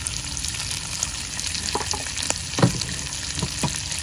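Squid, long beans, carrot and onion sizzling steadily in hot oil in a wok, with a few short knocks in the middle.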